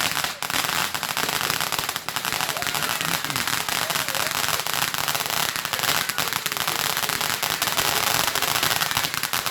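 Firework crackling: a dense, steady hiss full of rapid small pops.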